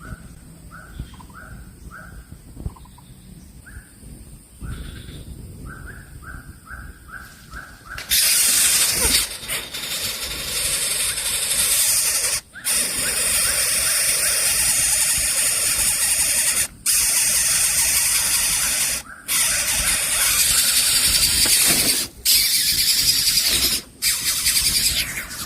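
Coucal chicks begging with loud, rasping, hiss-like calls that start about eight seconds in and run in long stretches broken by short pauses. Before that there is only a quiet run of short, evenly repeated chirping notes.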